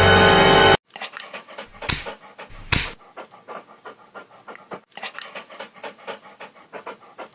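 A dog panting quickly and steadily, several short breaths a second, with two sharp knocks about two and three seconds in. Music cuts off abruptly just before the panting starts.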